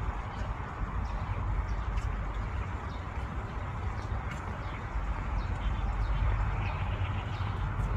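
Steady outdoor background noise with a strong low rumble, with faint, scattered short chirps of small birds.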